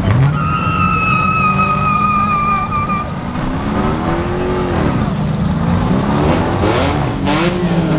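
Car engine revving hard with a tire squeal lasting about three seconds, typical of a burnout, then engines revving up and down.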